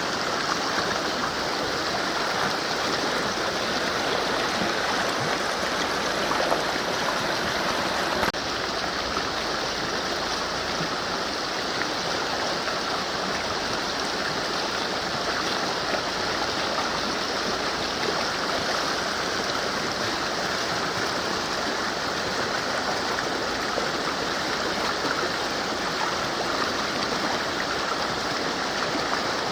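Mountain river flowing: a steady rush of water, shifting slightly about eight seconds in.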